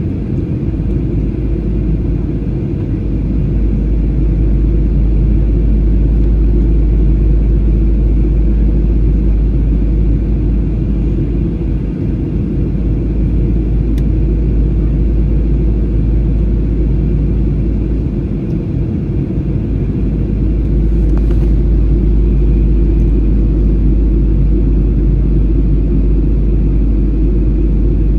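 Jet airliner cabin noise in flight: a steady low rumble of the engines and rushing air, swelling slightly twice.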